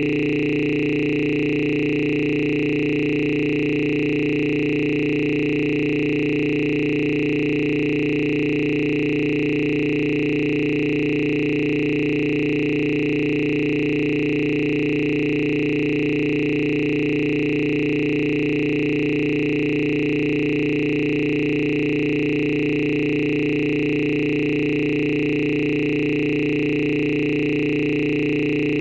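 A steady, unchanging electronic drone of several held tones, some low and some high, with no break or change.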